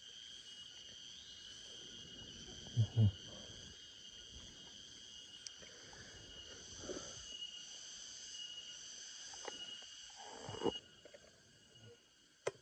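Steady chorus of insects, several shrill tones held without a break, with rustling through vegetation and two dull thumps about three seconds in.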